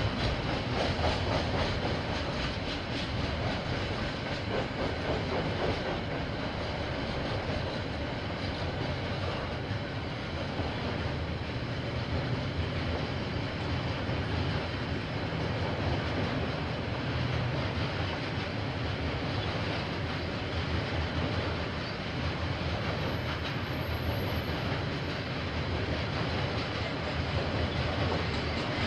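KiwiRail train passing: a steady, continuous rumble of steel wheels rolling on the rails as the cars go by, picked up by a security camera's microphone.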